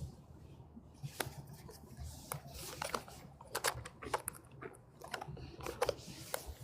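Dry fallen leaves crunching and crackling in irregular clusters of sharp crisp sounds.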